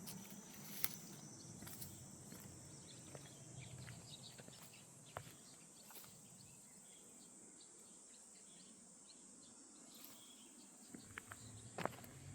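Faint outdoor ambience: a steady high-pitched hiss with scattered light clicks, and a few footstep-like knocks near the end.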